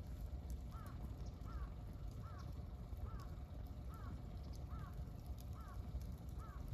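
A bird calling over and over, a short rising-then-falling note repeated eight times at about one every three-quarters of a second, over the low steady rumble and occasional crackle of a wood campfire.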